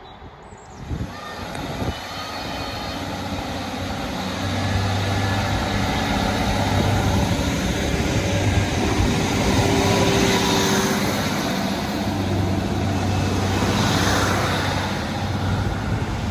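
A train running past, growing louder over the first few seconds into a steady rush of noise with a low hum underneath.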